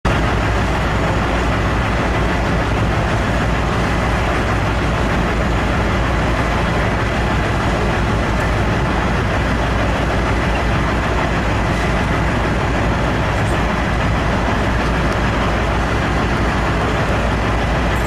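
Large Komatsu truck's diesel engine running steadily, with a deep rumble.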